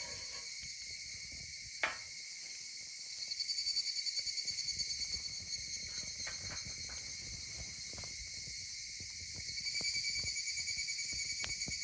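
Wood fire crackling in a fire pit, with small scattered pops and a sharper pop about two seconds in, over a steady high trilling chorus of night insects that swells twice.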